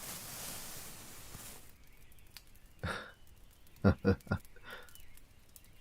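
A man's long, breathy sigh, then a few seconds later a short, soft chuckle of three quick breaths.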